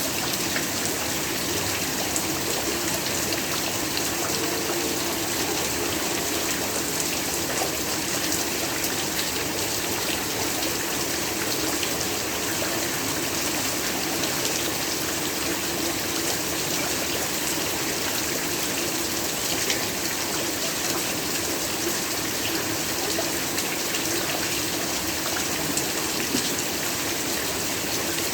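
Heavy, steady rainfall, a dense even hiss of countless drops with fine patter throughout.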